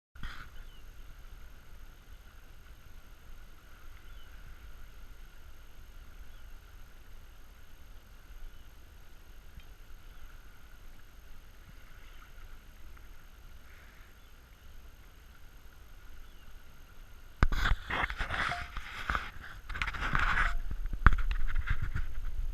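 Wind and water noise aboard a sailboat under sail in a breeze. From about three-quarters of the way through, the noise turns much louder and rougher, with heavy wind buffeting on the microphone.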